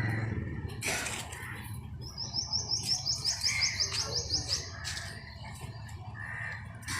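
A small bird singing a quick run of about fifteen high, evenly spaced chirps, slightly rising in pitch, lasting about two and a half seconds, over a low steady background hum.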